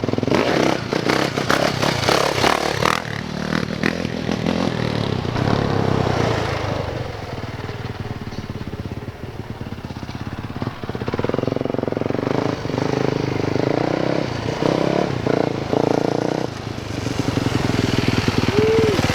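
2018 Yamaha YZ450F dirt bike's single-cylinder four-stroke engine being ridden, its note rising and falling with the throttle. It drops away for a few seconds midway, then comes back louder.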